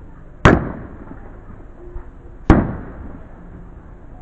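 Two aerial firework shells bursting about two seconds apart, each a sharp, loud bang with a tail that dies away.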